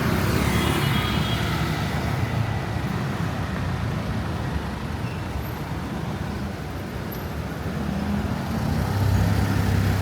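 Street traffic: vehicle engines running and tyre noise, with one vehicle growing louder in the last couple of seconds.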